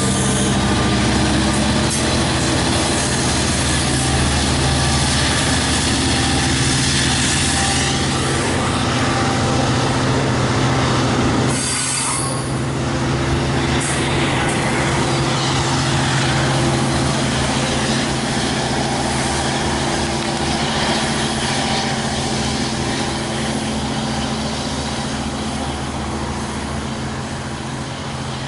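Long Island Rail Road diesel train of bilevel coaches rolling past close by, the locomotive's engine running steadily under the wheel and rail noise. The sound fades slightly near the end as the cab car pulls away.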